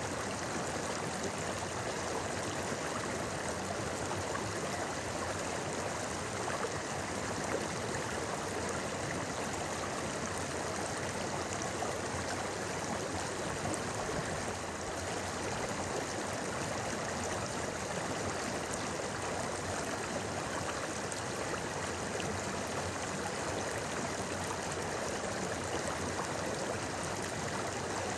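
A shallow river babbling: a steady, unbroken rush of flowing water.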